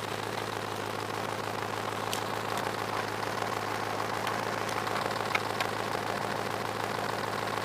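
Rover V8 engine idling steadily through a true dual stainless exhaust with Cherry Bomb mufflers. A few light clicks sound in the middle.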